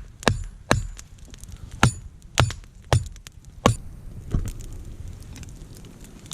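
A series of about seven sharp knocks or cracks, unevenly spaced, over the first four and a half seconds, then quieter.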